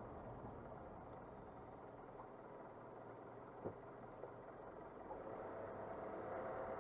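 Car engine and road noise as heard from inside the cabin while driving, low and steady, with a single sharp click a little past halfway; the noise grows slightly louder near the end.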